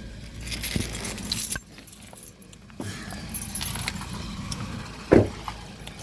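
Keys jangling and clinking in short clicks over the low, steady running of a car engine idling, with one sharp thump about five seconds in.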